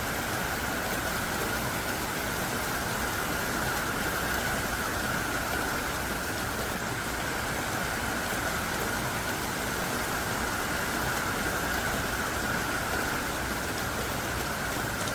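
Heavy downpour of large, thick raindrops falling hard and steadily: a dense, even rush of rain noise with no let-up.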